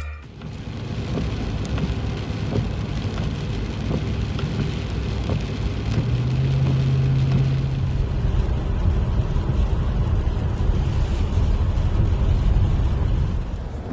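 Steady driving noise heard from inside a moving vehicle: low engine and road rumble with the hiss of tyres on a wet road. A low steady hum stands out for a couple of seconds about six seconds in.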